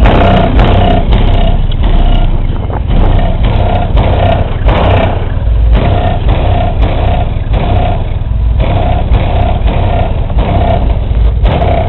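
12-inch Fi BL car subwoofer in a ported box tuned to about 34 Hz, playing bass-heavy music very loud inside the car, with deep thumping low notes and a short tone repeating about twice a second.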